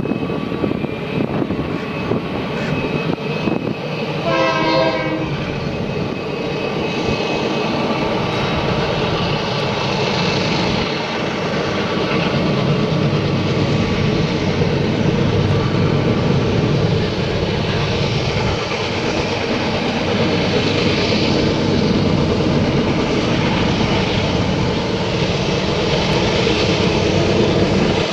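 Train running with a steady rumble, its horn sounding once for about a second some four seconds in; the rumble grows a little louder partway through.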